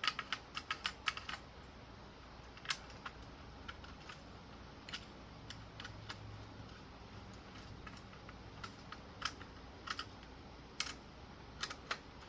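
Light clicks and taps from fan blades and small parts being handled and set down. There is a quick run of clicks at the start, then single ones every second or so.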